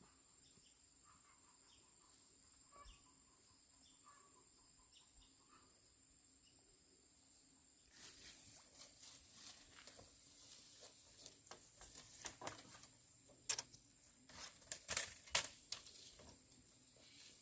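A steady, high, pulsing insect drone with faint chirps for about the first half. After that come scattered rustling and sharp clicks and knocks, loudest a few seconds before the end.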